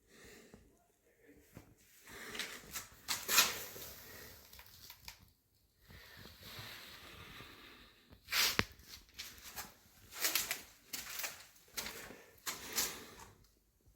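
Bricklaying by hand: a trowel scrapes through mortar and bricks are set and knocked into place, giving irregular scrapes with several sharp knocks. The loudest knocks come about three and a half and eight and a half seconds in.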